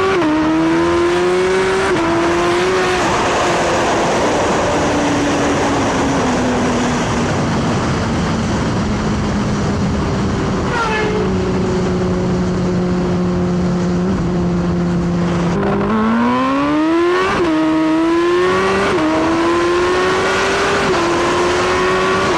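Turbocharged Suzuki Hayabusa inline-four engine pulling hard through the gears, its revs climbing and dropping back with each quick upshift. Through the middle the revs ease off and hold steady, then climb steeply again into another run of quick upshifts near the end.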